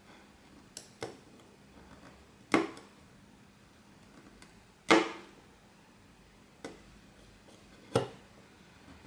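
Sharp clicks and taps of small tools and parts being handled on a repair bench: six separate knocks, the loudest about 2.5 and 5 seconds in.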